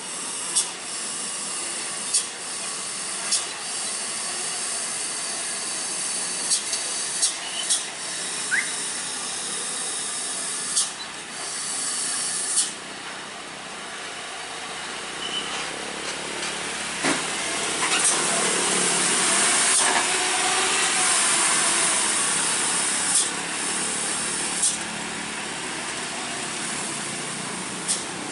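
Heavy truck traffic on a road: a steady hiss with a dozen or so short sharp clicks scattered through it, getting louder a little past halfway.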